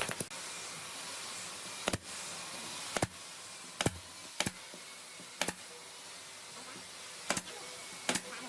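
Sharp single knocks or taps in a workshop, about seven at uneven intervals of roughly a second, over a steady hiss.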